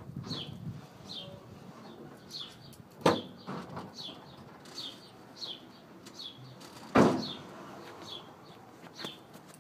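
A small bird calling over and over, a short falling chirp every half second to a second. Two sharp knocks cut through it, about three seconds in and about seven seconds in, the second the loudest.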